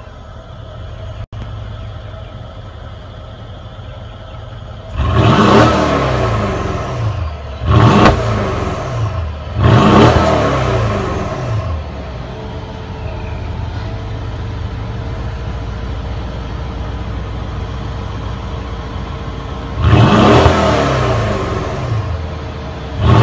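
Mercedes-AMG GLS 63's 5.5-litre twin-turbo V8 idling and being revved, about four quick blips that each climb sharply and fall back to idle, with a longer stretch of steady idle between the third and the last.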